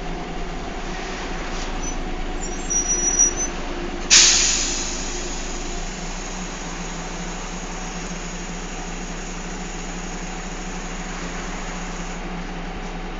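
Bus running steadily, heard from on board, with its engine and road noise as a constant drone. A brief high squeal comes about three seconds in, then a sudden loud burst of air hiss about four seconds in that fades over a couple of seconds, from the bus's air brake system.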